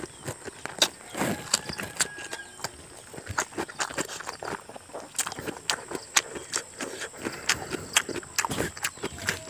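Close-miked eating by hand: wet chewing and lip smacks, coming as a quick, irregular run of clicks, as mouthfuls of rice are eaten, with fingers working rice on a banana leaf.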